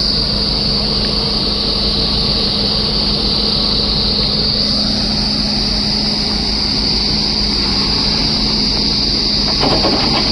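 Diesel engines of heavy earth-moving machinery (excavator and JCB backhoe loader) running steadily, with a constant high-pitched hiss over it and a brief louder noisy patch near the end.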